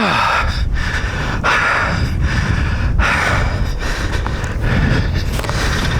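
A man breathing hard, with heavy, repeated breaths after exertion and leg cramps, over a steady low rumble.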